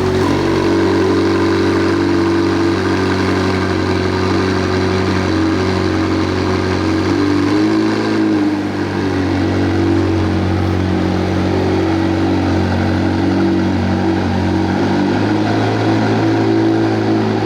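McLaren 765LT's 4.0-litre twin-turbocharged V8 idling steadily, just after being started.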